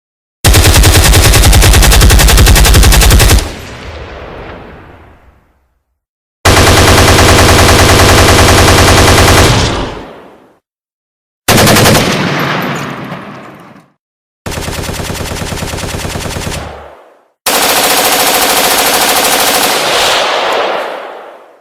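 Automatic gunfire sound effects: five separate bursts of rapid machine-gun fire, each a few seconds long. Each burst fades in an echoing tail and is followed by dead silence. The fourth burst is quieter than the others.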